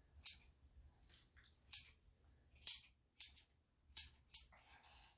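Grooming scissors snipping a dog's coat, about six short, sharp cuts at irregular intervals.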